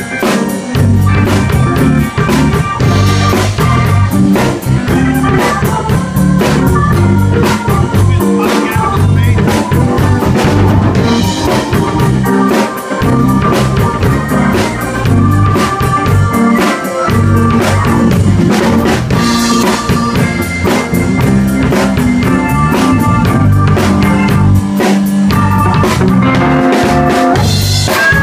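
Live blues band playing, with the drum kit prominent and keeping a steady beat.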